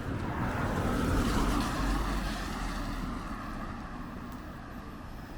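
A motor vehicle passing by: its engine and tyre noise swell to the loudest about a second or two in, then fade as it moves away.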